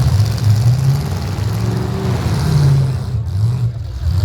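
Demolition derby vehicle engines running and revving, their pitch wavering up and down as the throttles are worked.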